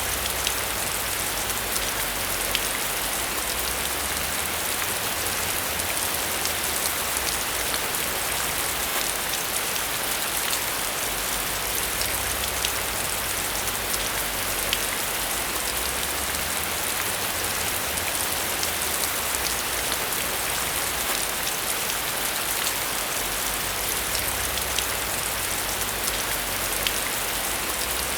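Steady rainfall: a continuous hiss of rain falling on a surface, with many fine drop ticks over a low rumble that swells and eases slowly.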